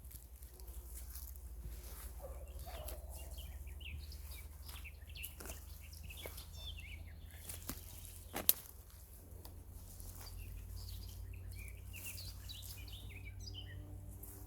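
Wild songbirds chirping and singing in short, scattered phrases over a low, steady rumble, with one sharp click a little past halfway.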